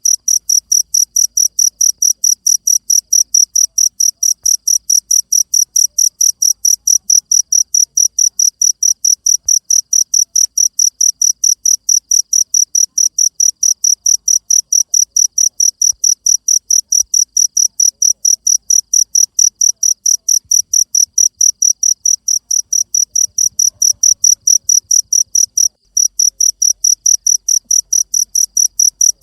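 Cricket chirping in a fast, perfectly even rhythm of high-pitched pulses, with a brief break about 26 seconds in.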